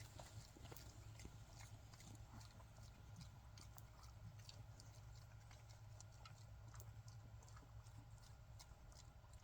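Faint, irregular crunching and clicking of kunekune pigs eating feed pellets, over a low steady rumble.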